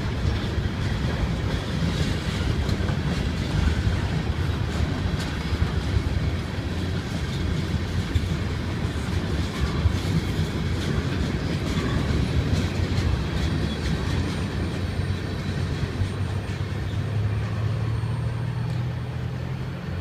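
Ferromex freight train passing, its steel wheels rolling with a steady rumble and rapid clicking over the rails. A low hum grows louder near the end.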